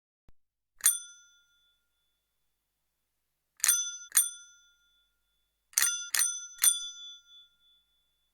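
Bicycle bell rung six times: a single ring, then a quick double ring, then a quick triple ring. Each ring dies away quickly.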